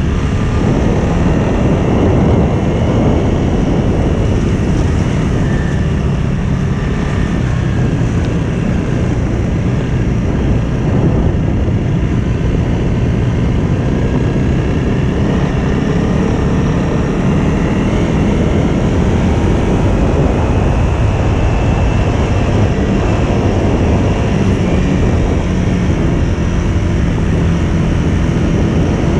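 Trail motorcycle engine running steadily as it is ridden, heard up close from the rider's own bike.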